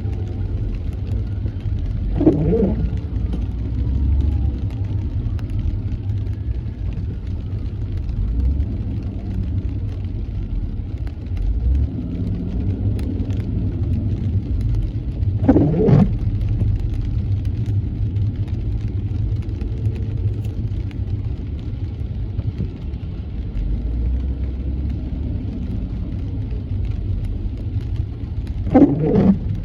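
Steady low road and engine rumble of a car driving in the rain. Three brief sweeping swishes come about every thirteen seconds, like windshield wipers on an intermittent setting.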